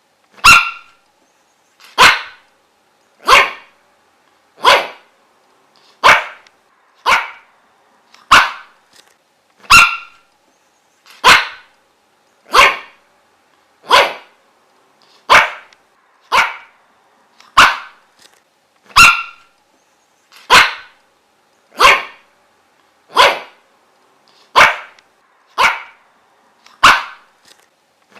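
A dog barking in single, sharp barks at a steady, even pace of roughly one bark every 1.3 seconds, about twenty in a row.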